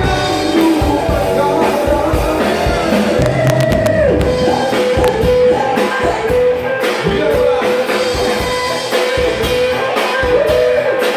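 Band music: a singer over drum kit and electric guitar, holding one long sung note from about four and a half seconds in to near the end.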